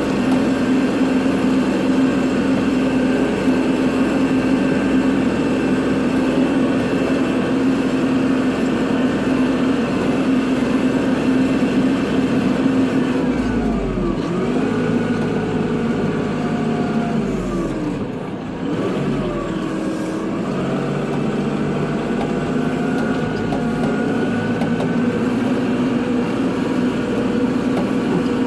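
Kubota tractor's diesel engine running steadily while plowing snow. Its pitch dips and comes back up twice around the middle, then settles.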